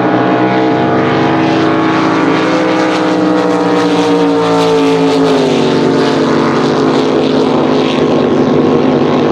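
Drag boat engine running steadily, its pitch easing up and then dropping about five and a half seconds in.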